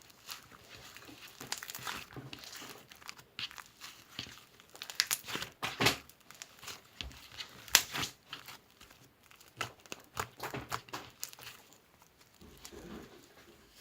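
Irregular crinkling and crackling, like material being crumpled and handled, with a few louder crackles about five, six and eight seconds in.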